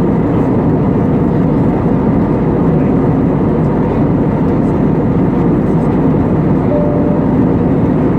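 Airbus A320neo cabin noise in flight: a steady, deep rush of airflow and engine sound heard from inside the cabin, with a brief faint tone about seven seconds in.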